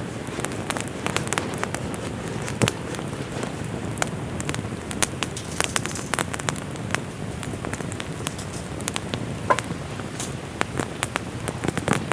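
Steady rain falling, with a wood campfire crackling and snapping in irregular sharp pops.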